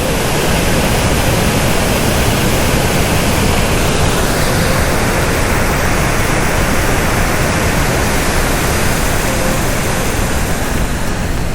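Steady, loud rush of river water pouring through a dam's open sluice gates.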